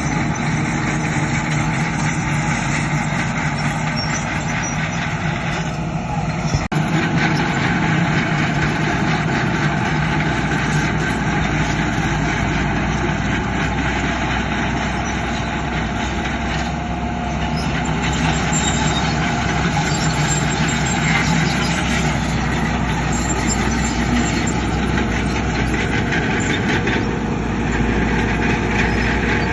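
Heavy diesel engines of a bulldozer and dump trucks running steadily, with one sharp knock about seven seconds in.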